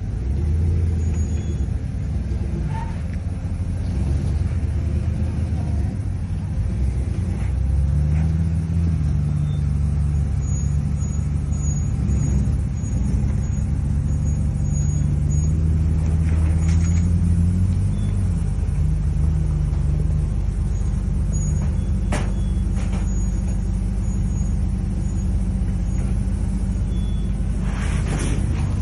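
Chevy K10 squarebody rock crawler's engine running at low speed as the truck crawls the trail, its pitch rising and falling with the throttle. There are a couple of sharp knocks late on.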